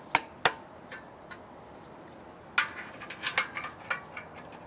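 Metal clicks and clinks of squat rack hardware and steel parts being handled and fitted: two sharp clicks near the start, then a quick run of lighter clinks about two and a half seconds in.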